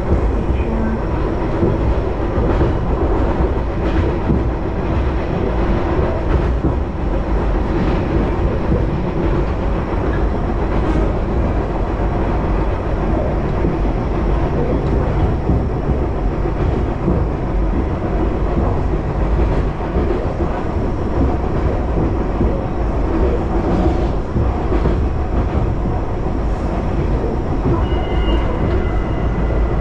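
Moka Railway diesel train running along the line: a steady rumble of engine and wheels on rail, with occasional faint clicks from the track.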